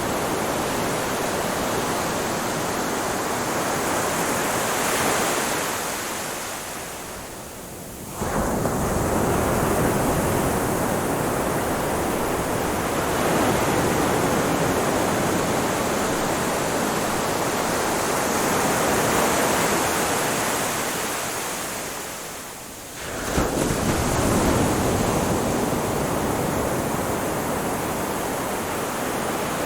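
Ocean waves on a beach: a continuous wash of surf that fades off twice as the water draws back, then comes back suddenly as the next wave breaks, about 8 seconds in and again about 23 seconds in.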